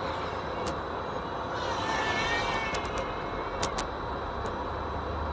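Propellers of a 6S long-range FPV racing drone whirring in flight, a steady rushing sound with a thin whine that swells and wavers about two seconds in; a pretty funny sound from the props. A few faint clicks.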